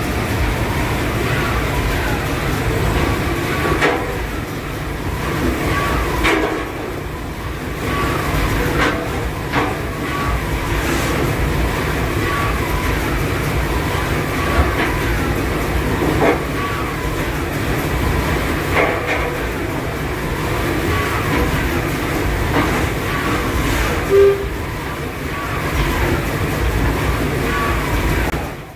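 Penn oscillating steam engine of the paddle steamer Diesbar running: a steady mechanical rumble with short clanks every few seconds.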